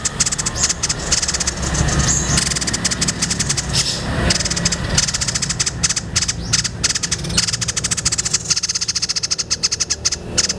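White-breasted babbler (tepus dada putih) singing a long, fast rattling, chattering song of rapid repeated notes, over a steady low hum.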